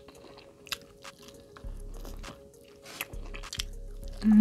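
Close-miked eating sounds of a person biting into and chewing a chicken wing: scattered crunching clicks and wet smacking. A loud hummed "mm" begins right at the end.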